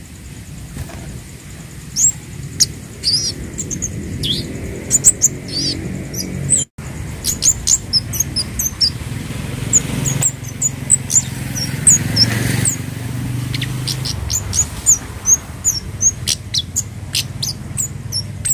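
A kemade (Javan cabe bird, a small flowerpecker) calling in quick, short, high-pitched chirps and sharp ticks, over a low background hum. The sound drops out briefly near the middle.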